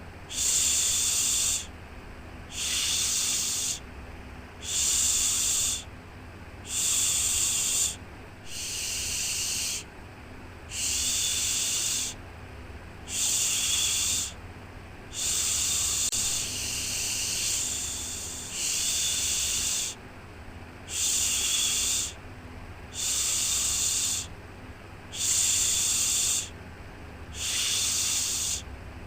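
Rhythmic shushing, a soft 'shhh' repeated about once every two seconds, each shush lasting a little over a second, for soothing a baby to sleep. A faint steady low hum runs beneath.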